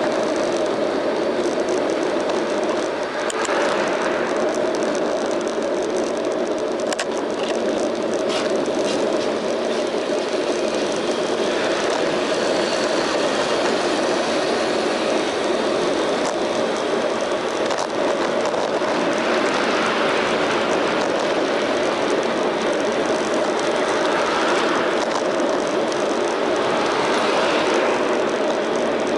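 Steady riding noise from a moving bicycle, wind and tyre rumble picked up by a bike-mounted action camera, with louder swells of passing street traffic several times.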